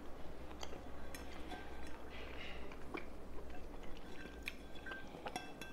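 Chewing and wet mouth noises from eating spaghetti, with a few light clicks of a metal fork against a ceramic bowl as the pasta is twirled.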